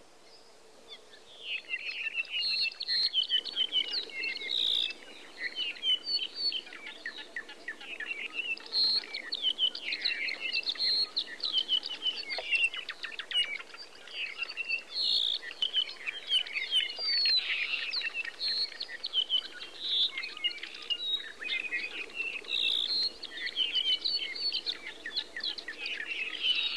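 Chorus of many birds chirping and whistling, densely overlapping. It starts about a second and a half in.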